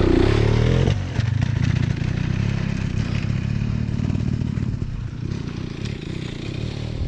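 Trail motorcycle engine running under load. It revs up a little, then drops off about a second in as the throttle eases, and runs on at a lower, uneven throttle with scattered knocks and rattles.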